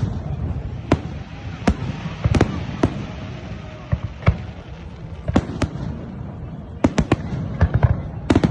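Firework salute going off: sharp bangs at irregular intervals, some coming in quick clusters of two or three, over a steady low rumble.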